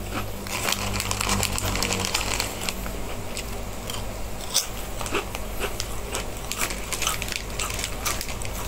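A person chewing a crunchy Mikako snack, with many irregular crisp crunches.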